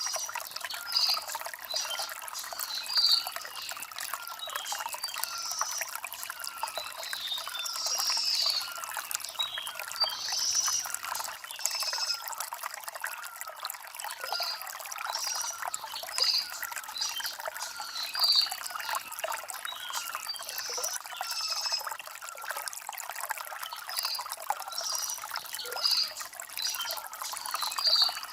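Shallow stream water trickling and gurgling over stones, with small birds chirping in short high bursts now and then.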